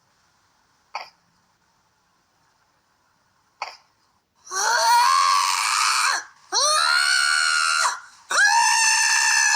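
Cat yowling: three long, loud calls in a row, each about a second and a half, sliding up in pitch at the start. Two short faint sounds come before them.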